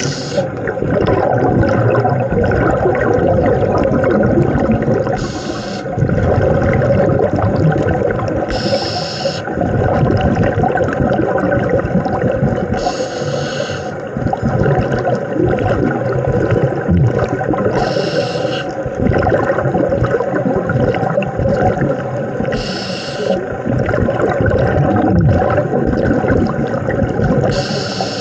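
Underwater scuba breathing through a regulator: a short hiss about every four to five seconds, with the rumble and gurgle of exhaled bubbles in between. A steady low hum runs underneath.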